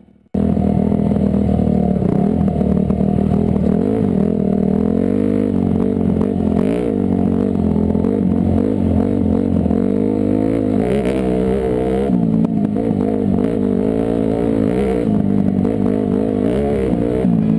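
Dirt bike engine running under way, its pitch rising and falling again and again with throttle and gear changes, and sounding muffled. It cuts in suddenly just after the start.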